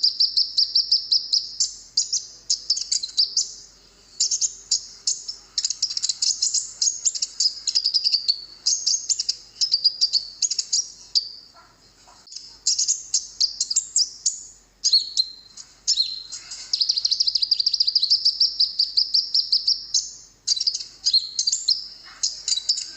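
Konin (kolibri ninja sunbird) song on a masteran training recording: fast, high chirps and rattling trills in long bursts, broken by short pauses a few times.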